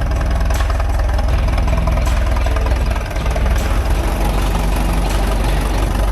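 Allis-Chalmers Model UC tractor's 317-cubic-inch four-cylinder gasoline engine running steadily at idle, with faint ticks about every second and a half.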